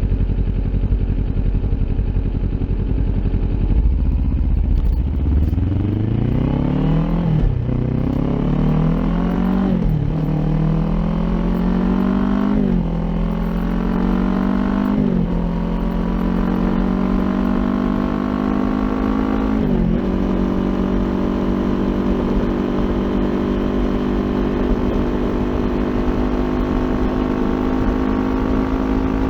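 Kawasaki Ninja 400's parallel-twin engine through an Akrapovic exhaust, pulling away and accelerating hard up through the gears: the revs climb and drop back at five upshifts. It then settles to a steady cruise.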